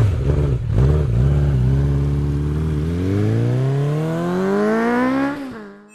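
Triumph Street Triple's 675 cc three-cylinder engine through a high-level Arrow exhaust, blipped once, then revved in one long steady climb that drops back and fades near the end.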